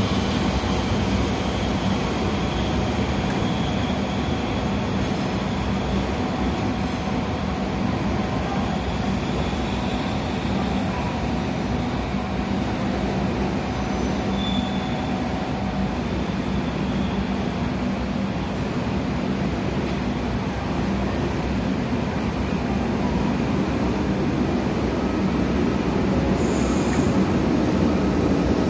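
Train noise: a diesel locomotive-hauled track-inspection train pulling out, with a steady engine hum and the sound of wheels on the rails.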